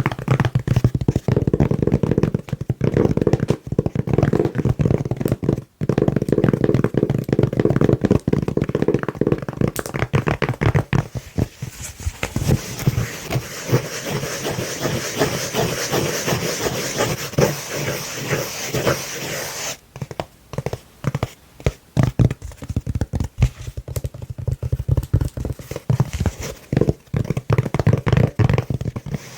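Long nails tapping and scratching fast on a soft velvet-covered lid. Rapid tapping gives way about eleven seconds in to a long stretch of scratching, then fast, separate taps again near the end.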